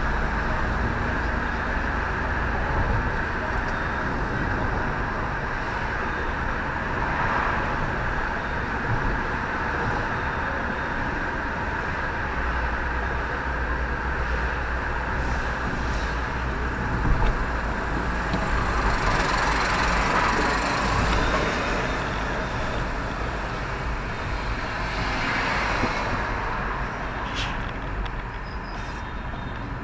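Steady rumble and road noise of motor vehicles, with a few louder swells.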